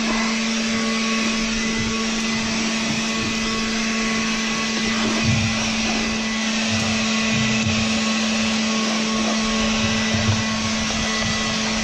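Craftsman 24-volt battery leaf blower running steadily: a constant motor-and-fan whine over a rush of air as it blows dirt off a tractor.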